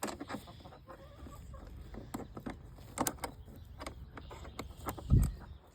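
Hens clucking faintly in a coop among scattered knocks and clicks, with a heavy thud about five seconds in.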